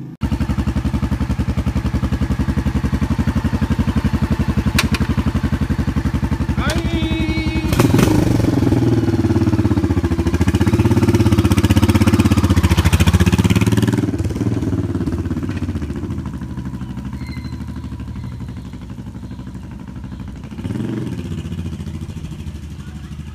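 Motorcycle engines running with an even, pulsing rumble. About eight seconds in they get louder and swell for several seconds, then fade away, with another brief swell near the end.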